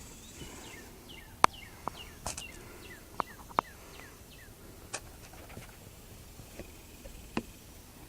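Sharp, irregular clicks and taps, about seven in all, the loudest about a second and a half in, with a bird chirping short falling notes in the background, mostly in the first half. A high, steady insect trill fades out within the first second.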